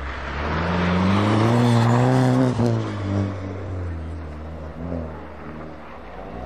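Ice-racing car's engine at full throttle, its note climbing and getting louder as it approaches. About two and a half seconds in the pitch drops sharply as it goes by, then it fades to a lower, steadier engine sound.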